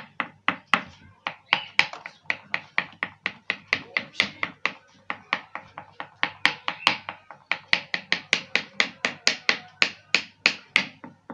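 Knife chopping boiled egg into fine pieces on a hard surface: quick, even strokes at about four a second, each a sharp tap.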